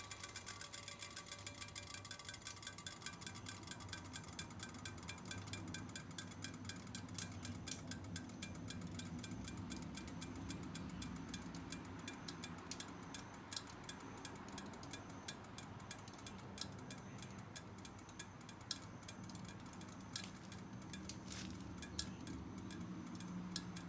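Kawasaki Zephyr 750's air-cooled inline-four idling, with a rapid, rhythmic metallic tinkling (a 'chin-chin' sound) from the muffler.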